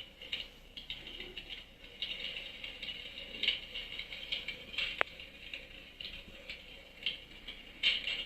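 Fire crackling in a fireplace: irregular pops and crackles, with one sharp pop about five seconds in.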